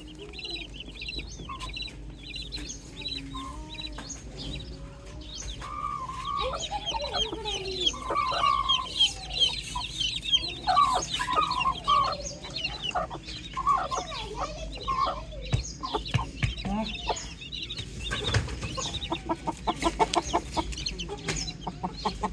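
Many chicks peeping in short high-pitched chirps, with a hen clucking in lower calls through the middle and a quick run of short clucks near the end.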